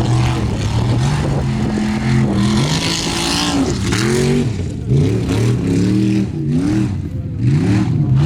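Formula offroad race buggy's engine revving hard, its pitch rising and falling about five times as the throttle is worked on and off.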